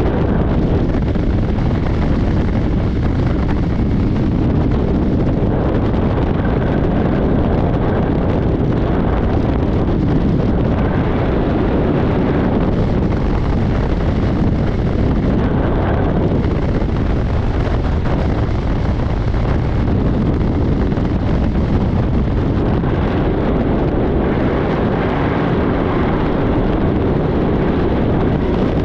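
Steady, loud roar of wind rushing over a body-worn microphone during a skydive.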